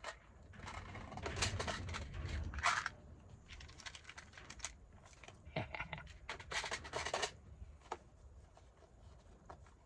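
Rummaging by hand through small craft supplies: packets rustling in two longer stretches, with scattered light clicks and clatters of small items.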